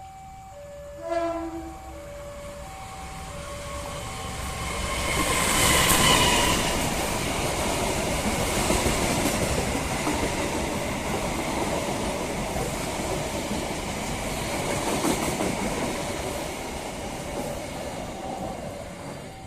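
Diesel-hauled passenger train passing a level crossing. The crossing's alternating two-tone electronic warning chime is heard at first. The train comes up with a short horn note about six seconds in, then its wheels and carriages rumble past steadily until near the end.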